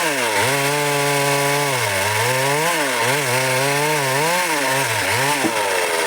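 Stihl MS 382 two-stroke chainsaw cutting dry wood at high revs, its engine pitch dipping repeatedly as the chain bites into the wood and rising again between cuts.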